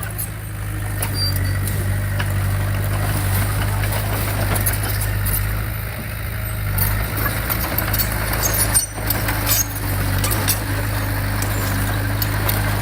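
Heavy diesel earthmoving equipment running steadily with a low engine hum, with frequent metallic clanks and rattles over it and a short dip in level about nine seconds in.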